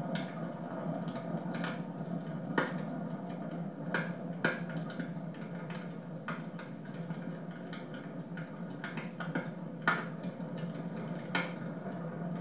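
Wood fire crackling in a fireplace: irregular sharp pops and snaps, a dozen or so, over a steady low rush of the flames.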